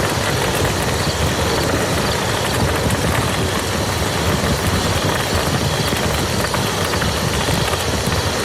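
Steady rain falling on a muddy field: an even hiss with a low rumble beneath and scattered drop ticks.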